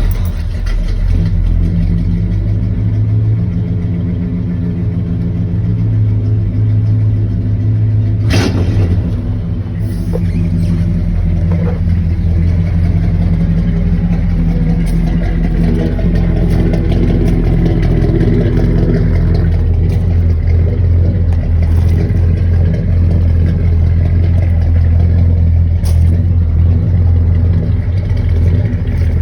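1985 Chevy K20's 454 big-block V8 running steadily at idle through its exhaust. There is one sharp knock about eight seconds in.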